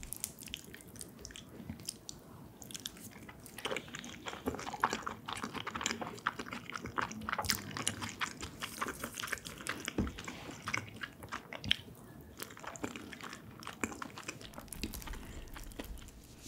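Close-miked chewing of creamy pasta: soft, wet mouth sounds with frequent small smacks and clicks.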